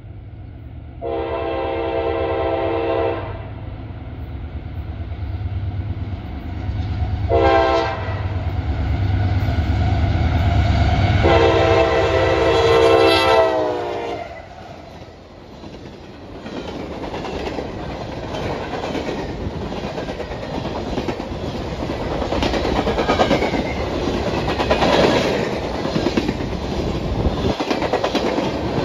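Diesel locomotive's air horn sounding three blasts over the low rumble of its engine: long, short, then long, the last one dropping in pitch as the locomotive passes. After that come the steady clickety-clack of the train's wheels over the rail joints as the cars roll by.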